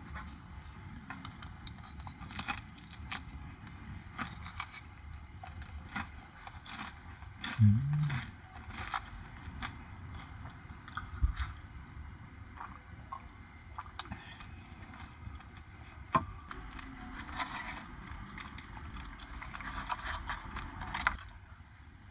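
Objects being handled at close range: scattered clicks, light knocks and scraping, with one dull thump a little before the middle and a busier stretch of clatter near the end.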